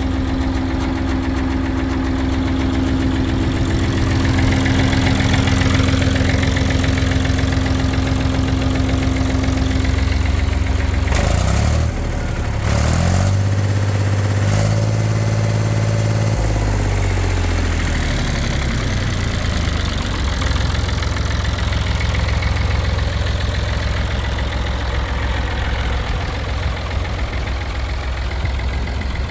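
David Brown 885 tractor's three-cylinder diesel engine idling steadily. About eleven seconds in there are a couple of knocks, then the engine revs up, holds a higher speed for a few seconds and drops back to idle.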